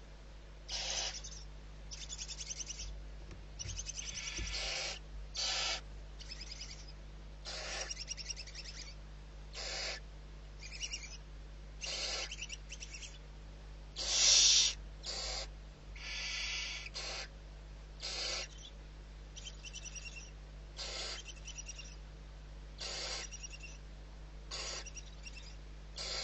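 Barn owl giving a run of harsh, raspy hissing screeches, repeated at irregular intervals of about a second, with the loudest about halfway through. A low steady hum runs underneath.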